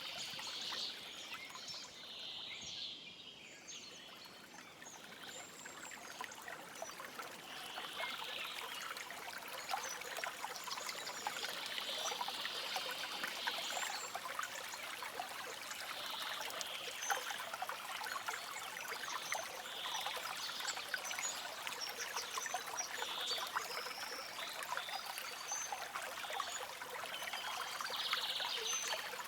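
A stream running and trickling steadily, its babble brightening in brief swells every second or two.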